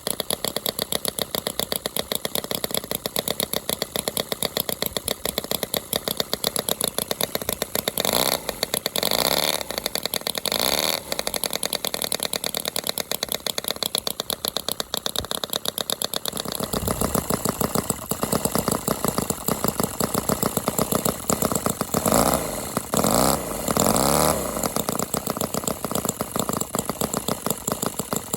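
4.2 cc R29 scale-model Knucklehead V-twin engine, fitted with homemade brass slip-on mufflers, running with a fast, even firing beat. Its revs rise and fall briefly twice, about a third of the way in and again near the end.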